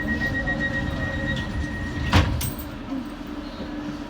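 DLR train's door-closing warning tone sounding steadily, then the sliding doors shutting with a loud thud about two seconds in, over the low hum of the stationary train.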